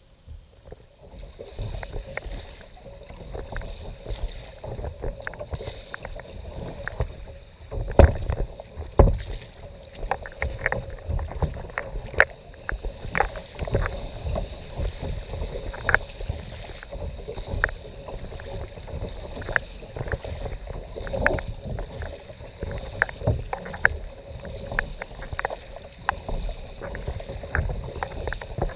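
Water splashing and slapping around a kayak, with irregular knocks against the hull over a low rumble; two louder thumps come about eight and nine seconds in.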